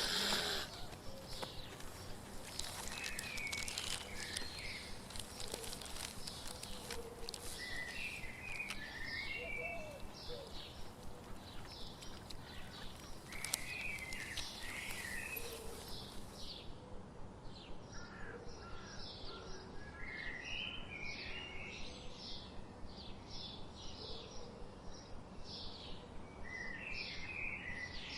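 Birds chirping over a steady outdoor hiss, with clusters of short calls every few seconds and a quick repeated call about twice a second in the second half.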